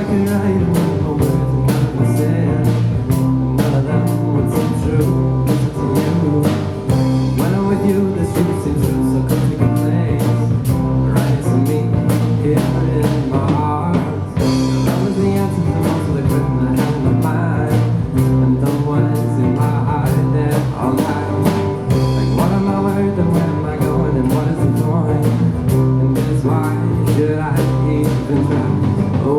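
Live band playing a song: drums keep a steady beat under guitar, with singing over it.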